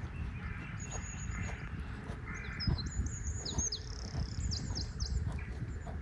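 Small birds chirping: short high whistled notes and several quick downward-sliding calls, clustered in the middle seconds, over a steady low rumble.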